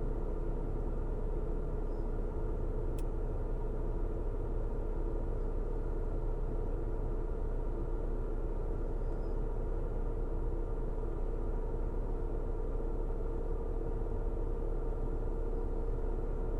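Car driving steadily: a constant low road and tyre rumble with a steady engine hum on top.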